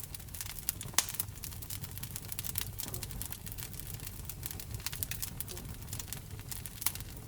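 Wood fire burning in a fireplace: a low steady rumble of the flames with irregular sharp crackles and pops of the burning logs, one louder pop about a second in.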